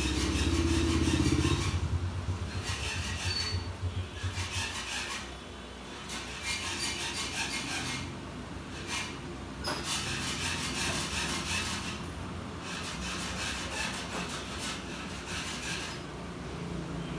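Repeated rubbing or scraping strokes, each lasting a second or two with short pauses between. A low hum is loudest over the first few seconds.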